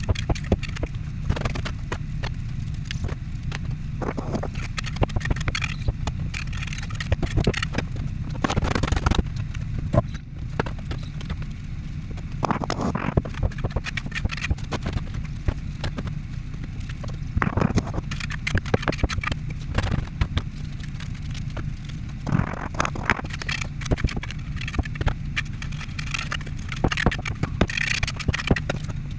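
Repeated scraping and knocking of hand work with bricks and mortar, irregular and scattered throughout, over a steady low rumble.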